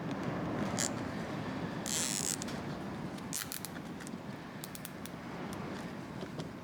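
Hands at work masking a brake caliper: scattered small clicks and a short rasp about two seconds in, over a steady rush of storm wind.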